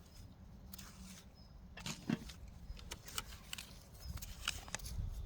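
Hand hoe digging in soil: scattered scrapes and sharp knocks over a steady low rumble.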